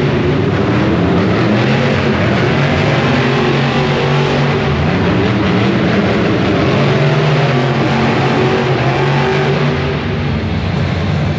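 Loud monster truck engine running, its pitch rising and falling a little over a dense background din.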